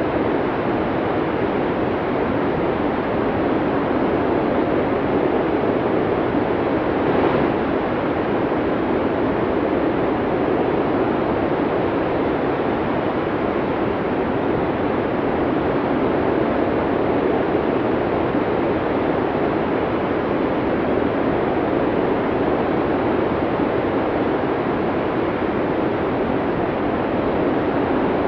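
Snowstorm wind blowing hard and steadily, a constant rushing noise, with a slight brief swell about seven seconds in.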